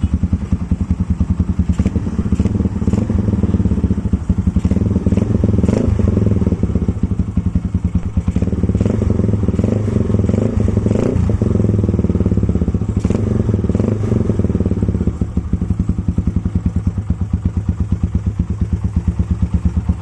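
Yamaha Scorpio single-cylinder motorcycle engine running through a Japstyle full-stainless aftermarket silencer, with a steady thumping exhaust beat; it is revved up a little between about five and twelve seconds in, then settles back.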